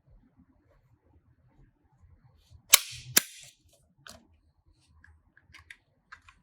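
Diecast toy car being handled: two sharp clacks about half a second apart, then a few faint clicks.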